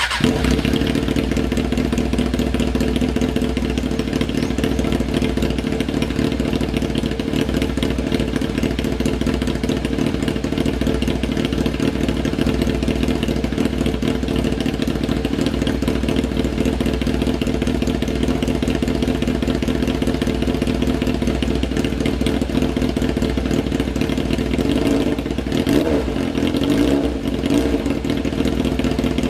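A 600cc superbike running through a loud replica aftermarket exhaust, idling steadily after a sudden start, with a couple of brief throttle blips near the end.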